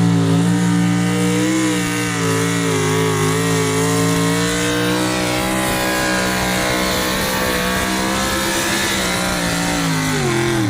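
Pulling vehicle's engine held at high revs under full load during a pull, its pitch steady with a slight waver, starting to drop away at the very end.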